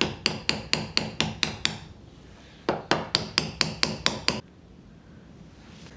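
A small hammer rapidly tapping a drift or small chisel against a steel circlip in a Land Rover propshaft's universal joint, trying to shift the seized clip. There are two quick runs of sharp, ringing metal taps, about five a second, with a short pause between them, and then it stops.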